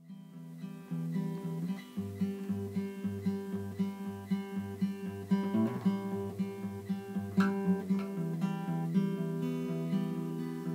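Background music: a strummed acoustic guitar, starting right after a silent cut, with a bass note repeating about twice a second.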